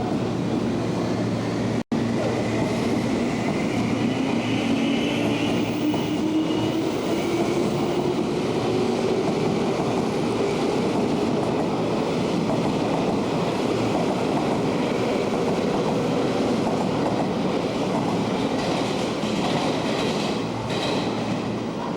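Chuo Line 201-series electric train gathering speed, its motor whine rising slowly in pitch over the rolling wheel noise and the clicking of wheels over rail joints. The sound drops out for an instant about two seconds in.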